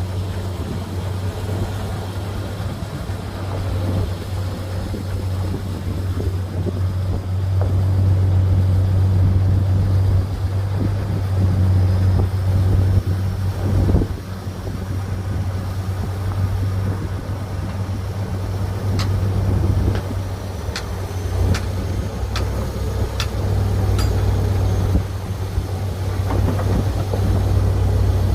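Heavy diesel engine of a bulldozer running with a steady low drone that swells and eases in level. Several sharp clicks or clanks come about two-thirds of the way through.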